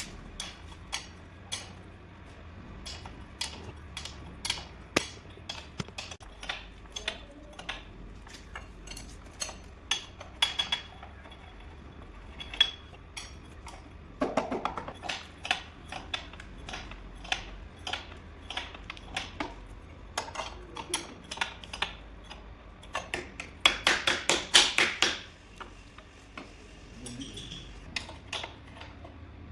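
Metal tools clinking and tapping against metal parts during transformer assembly: irregular sharp clicks and knocks, with two quicker flurries of clatter about halfway through and again near the end.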